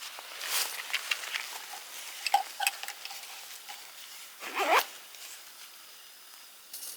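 Gear being handled close by: a run of rustles and small clicks, then one louder, quick swish about four and a half seconds in, over a soft steady hiss.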